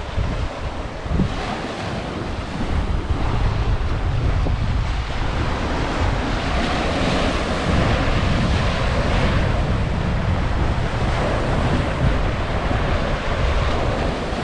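Wind buffeting the microphone in a steady low rumble over the wash of waves breaking on a rocky shore.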